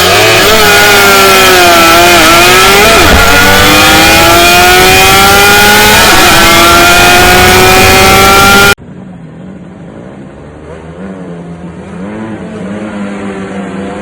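Loud engine accelerating, its pitch dipping and then climbing steadily for several seconds. About nine seconds in it cuts off abruptly to a much quieter engine whose pitch rises and falls.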